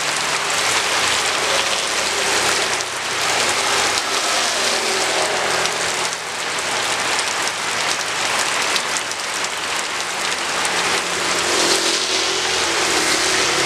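Steady heavy rain falling on hard surfaces, a dense even hiss, with the faint low hum of a passing vehicle's engine coming up near the end.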